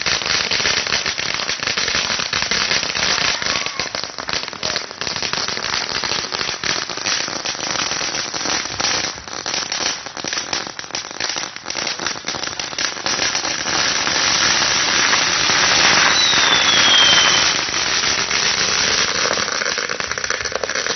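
Consumer fireworks crackling and popping in a rapid, continuous stream of small cracks, with a short falling whistle about two-thirds of the way through.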